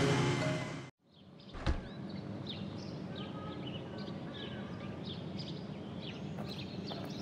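Music cuts off abruptly about a second in. After a single knock, a quiet outdoor ambience follows, with small birds chirping repeatedly.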